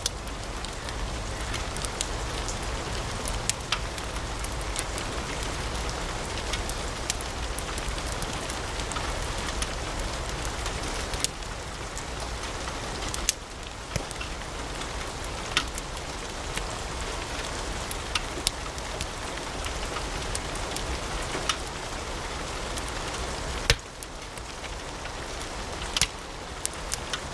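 Wood fire in a fireplace crackling: a steady hiss with frequent irregular snaps and pops, a few of them louder, the loudest near the end.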